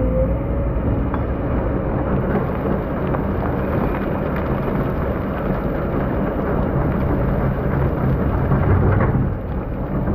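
Excavator working a sand pit: a loud, steady rushing, crackling noise of sand and gravel moving, with the diesel engine's low hum beneath it. The noise swells near the end and then eases off.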